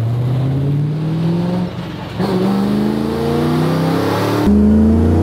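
Supercharged Boss 302 V8 of a 900 bhp Ford Mustang RTR drift car accelerating hard, revs climbing, dipping briefly about two seconds in, then climbing again. The sound turns suddenly louder about four and a half seconds in.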